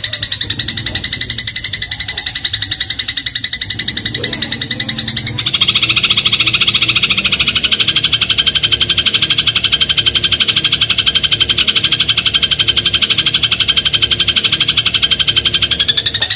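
Eurasian tree sparrow song: a loud, rapid buzzing trill of very quickly repeated high notes, shifting to a lower, fuller trill about five seconds in.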